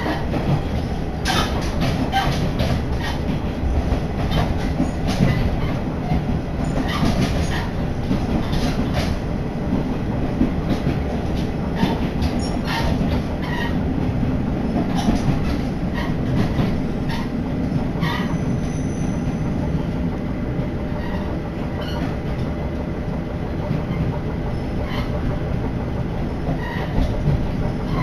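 Diesel railcar running, heard from inside the carriage: a steady low rumble of wheels on rail, with scattered clicks from the track.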